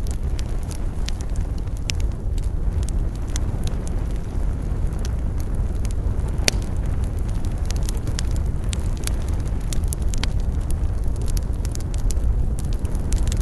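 Campfire of burning wood crackling and popping, with frequent sharp snaps over a steady low rumble; one louder pop about halfway through.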